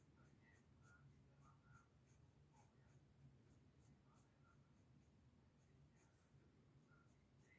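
Pencil strokes scratching on paper, faint, in short strokes about two or three a second, over a low steady hum.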